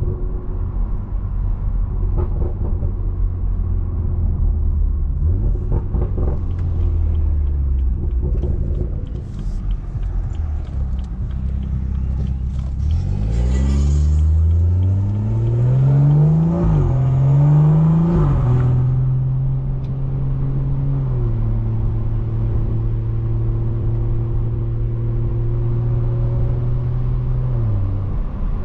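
BMW 340i's turbocharged 3.0-litre straight-six, fitted with a bigger turbo and a straight-piped exhaust, cruising steadily, then accelerating hard about 13 seconds in. The pitch rises through two quick upshifts before it settles into a steady, higher-pitched cruise and eases off near the end.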